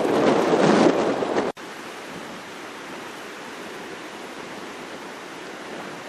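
Strong wind buffeting the microphone, cut off suddenly about a second and a half in, then a steady, quieter rush of ocean surf on a windy shore.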